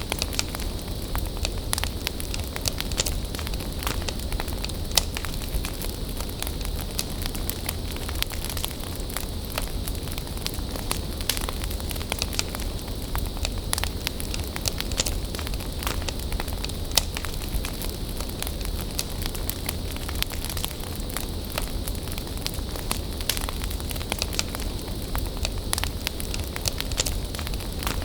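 Wood bonfire burning, a steady hiss and low rumble with frequent sharp crackles and pops of the burning wood.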